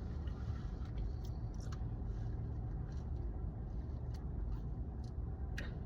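Steady low rumble of a car's idling engine heard from inside the cabin, with a few soft clicks scattered through it.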